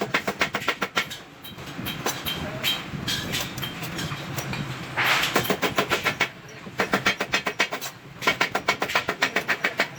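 Hammer rapidly striking stainless steel sheet by hand, in quick runs of several blows a second with short pauses between runs. A brief hiss comes about five seconds in.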